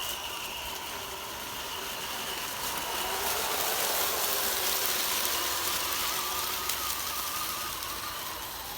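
A 1/10-scale RC crawler running: a faint whine from its electric motor and gears over a hiss of tyres and grit. The hiss grows louder for a few seconds in the middle, then eases.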